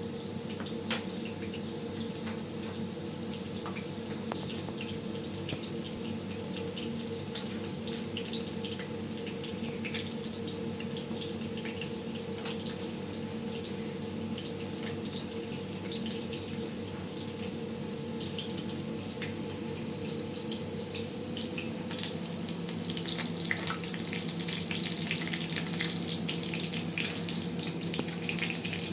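Steady high insect trill with scattered small clicks and knocks. In the last several seconds it grows louder, and running water joins in.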